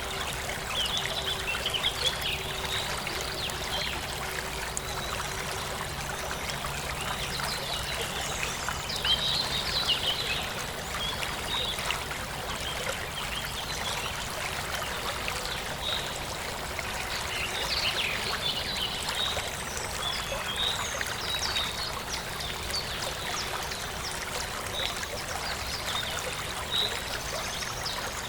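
Forest stream flowing and trickling steadily, with birds chirping now and then over the water.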